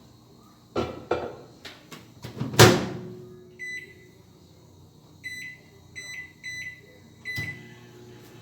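Microwave oven being loaded and closed: a few knocks and a loud thump of the door shutting, then a run of short high keypad beeps as it is set for 5 minutes at full power. A low steady hum follows near the end as the oven starts running.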